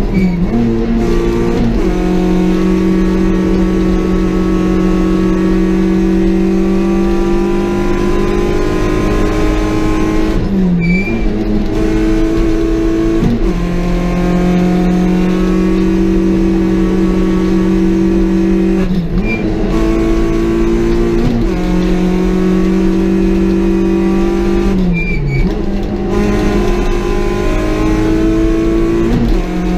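Peugeot 206 XS hillclimb car's engine at full racing revs, heard from inside the caged cabin. Its pitch climbs slowly, then dips briefly and picks up again several times.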